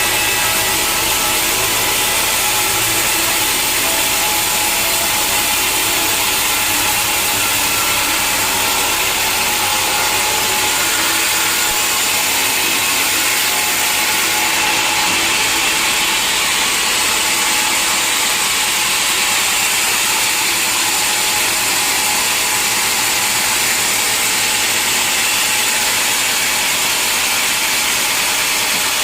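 Sawmill machinery running, a loud, steady, even noise with faint constant tones and no breaks.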